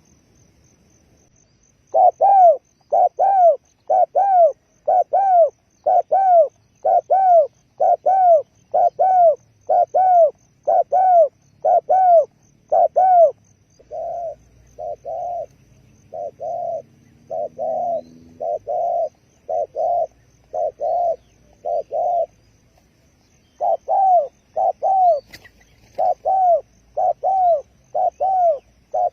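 A dove cooing in a fast run of short, arched coos, about two a second. Partway through the run changes to flatter, lower coos, pauses briefly, then the arched coos resume.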